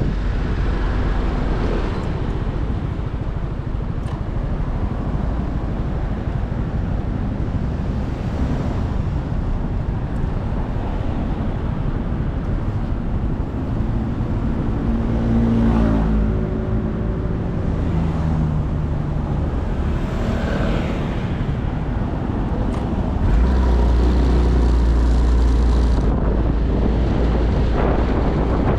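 Motorcycle riding in traffic: wind rush on the microphone over the engine, whose note rises and falls twice through the middle as the bike speeds up and eases off. A heavier low wind rumble sets in for a few seconds near the end.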